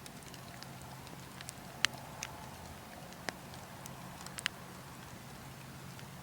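Burning logs crackling, with a handful of sharp pops, the loudest about two seconds in and others near three and four and a half seconds, over a steady wind.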